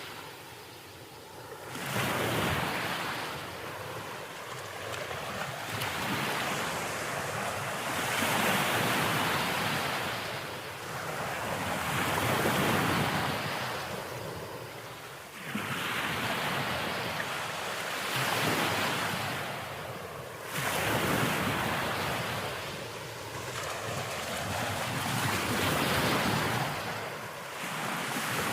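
Sea waves breaking and washing in, one surge after another every three to five seconds. Some waves hit suddenly, about two seconds in and again past the middle.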